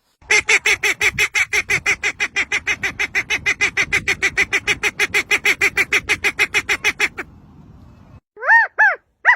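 A bird calling in a long, rapid run of nasal honking notes, about six a second, that stops abruptly; a few short rising-and-falling cries start near the end.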